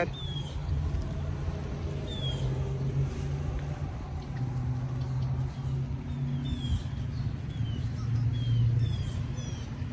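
Steady low hum of a vehicle engine, shifting slightly in pitch, with faint short high chirps of birds calling now and then.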